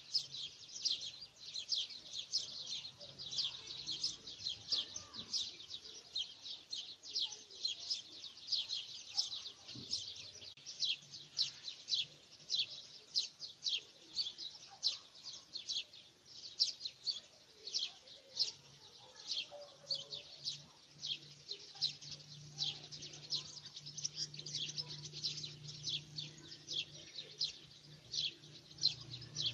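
Birds chirping in a continuous, busy stream of short high chirps, several a second. A faint low steady hum joins in over the second half.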